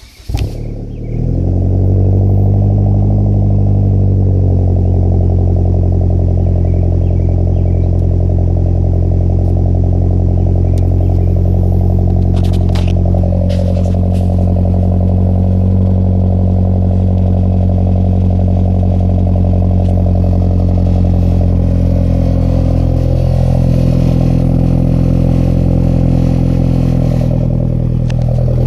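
Hyundai Genesis Coupe 2.0T's turbocharged four-cylinder engine firing up through a custom exhaust. It runs at a raised idle for a few seconds, then drops to a steady idle about four seconds in. A few light clicks come about halfway through.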